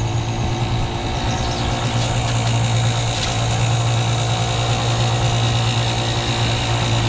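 27-year-old outboard motor idling steadily with its primer pulled out, an even, unbroken hum. The motor doesn't like to idle without the primer out.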